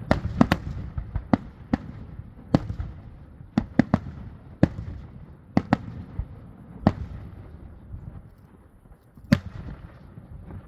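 Fireworks finale with heavy salute shells: about a dozen sharp, loud bangs in irregular succession, several in quick pairs and triplets, with a low rumble between them. After a lull there is one more loud bang near the end.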